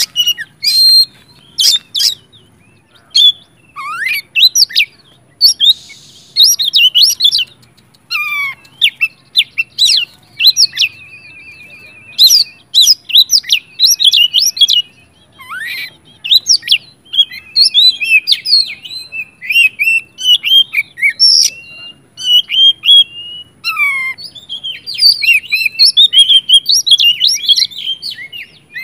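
Oriental magpie-robin (kacer) singing loudly and continuously: a rapid, varied song of sharp whistles, quick slurred notes and a few buzzy rattling trills, with short breaks between phrases. This is the agitated, fired-up song of a bird in full voice.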